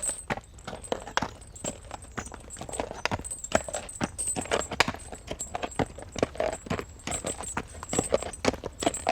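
Horse and carriage passing: hooves clip-clopping in a dense, irregular run of sharp knocks over a low, steady rumble.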